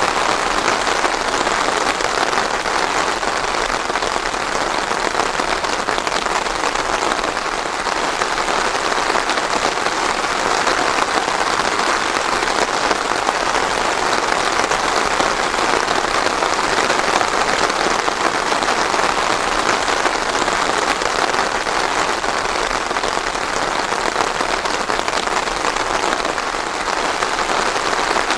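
Steady rain falling on a surface, an even hiss of drops without thunder.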